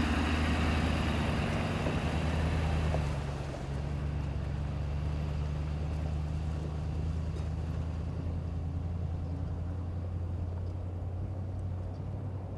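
A 4x4 truck's engine running steadily while driving a dirt trail: a low, even drone that eases slightly about three and a half seconds in.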